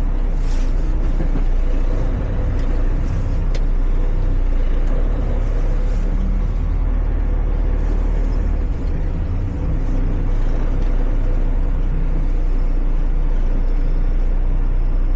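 Semi truck's diesel engine running steadily at a low, even rumble, with a few short clicks in the first few seconds.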